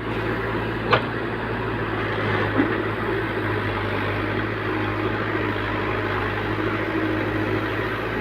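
A JCB machine's diesel engine running steadily, with two short sharp knocks, about one second and two and a half seconds in.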